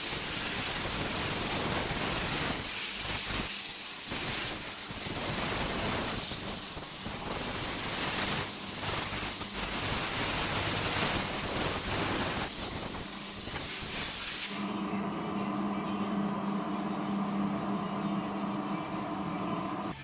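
A detailing tool's jet hissing hard for about fourteen seconds, wavering as it is moved. It then cuts off suddenly, leaving a machine's steady pitched hum running on.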